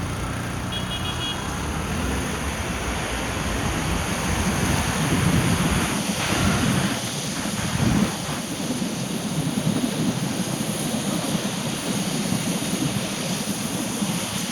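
Steady road and rain noise of a car driving in the rain: a low rumble with a wash of water and wind noise that swells a few seconds in, and a brief faint high tone about a second in.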